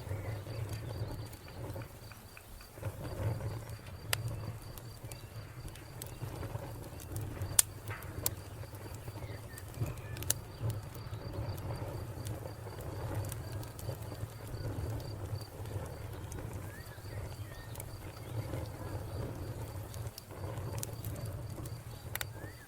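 Wood fire crackling, with a low flutter of flames and sharp pops now and then, the loudest about seven and a half seconds in. A cricket chirps in fast, even pulses alongside, pausing for a while near the middle, with a few faint bird calls.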